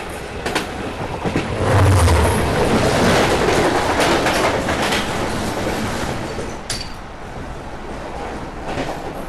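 Passenger train running at speed, heard from inside the coach: a steady rumble of wheels on rail with scattered clicks and knocks of the wheels over rail joints. It is loudest a couple of seconds in and eases off somewhat after about six seconds.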